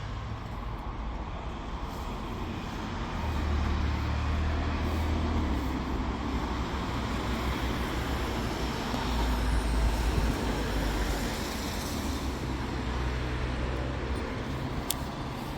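Road traffic going past: a steady low engine rumble that swells as vehicles pass, about three seconds in and again near ten seconds.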